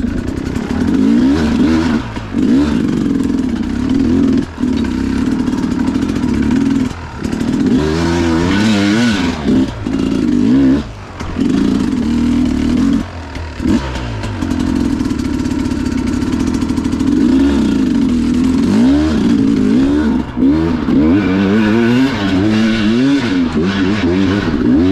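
Two-stroke Sherco enduro dirt bike engine revving hard and unevenly while working over a log on a steep climb, the pitch swinging up and down with the throttle and cutting back sharply several times.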